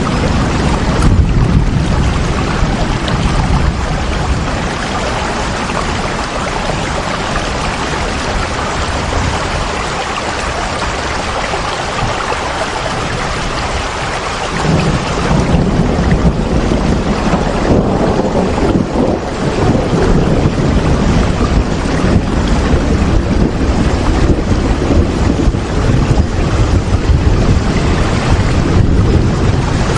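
Steady heavy rain, a dense even hiss, with a deeper low rumble swelling in about halfway through and carrying on.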